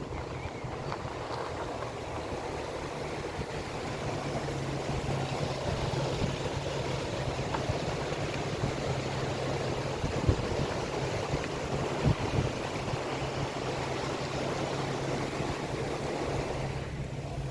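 Car driving along a road: a steady low engine hum under road and wind noise, with a couple of short knocks about ten and twelve seconds in.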